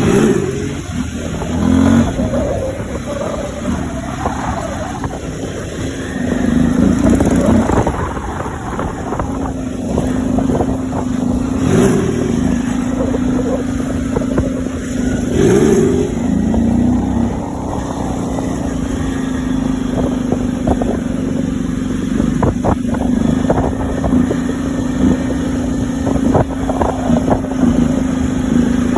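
Motorcycle engine running steadily and revving up briefly several times.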